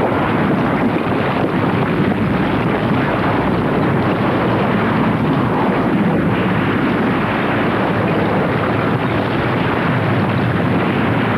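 Steady, loud roaring noise of a volcanic eruption, with no separate bangs.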